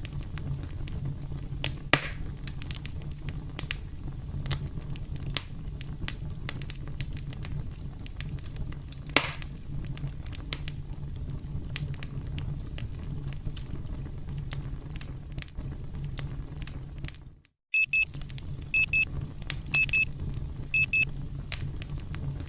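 Campfire crackling, a steady low rumble with frequent sharp pops. About seventeen seconds in the sound drops out for a moment, then an electronic alarm sounds four high double beeps about a second apart over the fire: the countdown timer's end-of-time alarm.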